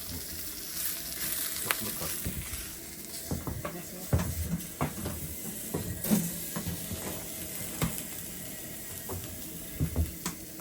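Food sizzling in a frying pan, a steady hiss with scattered clicks and scrapes of a utensil stirring or turning it.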